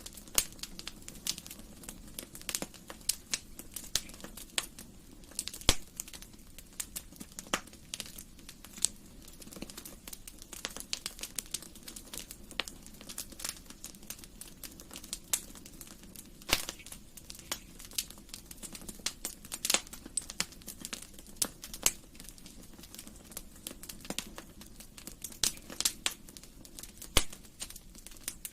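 Wood fire burning in a fireplace, crackling with irregular sharp pops over a low steady hiss, a few louder snaps among them.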